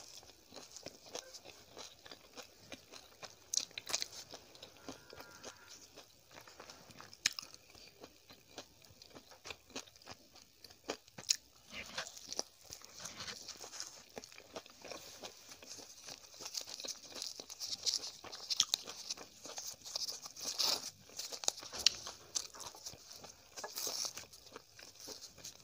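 Close-miked chewing and biting of a noodle-filled egg roll: irregular wet mouth clicks and soft crunching.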